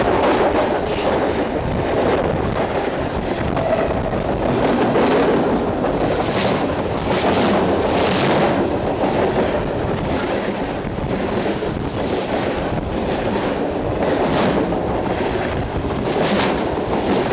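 Freight train cars rolling directly overhead, heard from the track bed between the rails: a loud, steady rumble with repeated clacks as each wheel set passes.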